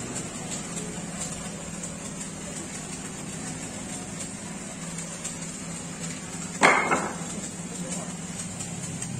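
A single sharp metallic clank with a brief ringing tail about two-thirds of the way in, over a steady low hum.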